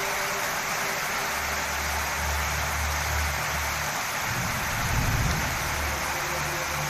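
Heavy storm downpour of rain and hail, a dense steady hiss pelting paving and a metal shed. A low rumble comes in about a second in and swells to its loudest about five seconds in.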